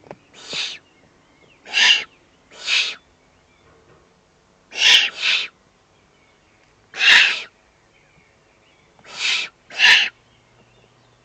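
Eurasian eagle-owl chicks giving short rasping, hissing begging calls at the nest during a feeding, about eight in all, often in pairs, one to two seconds apart.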